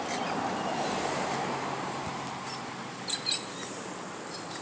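Birds chirping, with a quick burst of short, sharp high calls about three seconds in, over a steady outdoor background noise.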